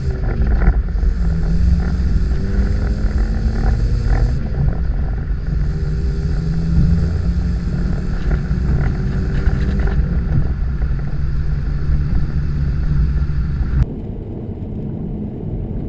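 2015 Chevrolet Camaro 1LT V6 with the dual-mode performance exhaust, driven slowly at low rpm with the exhaust valves closed, so the exhaust note stays muted. The pitch shifts gently with the revs, and about 14 s in the sound drops suddenly to a quieter level.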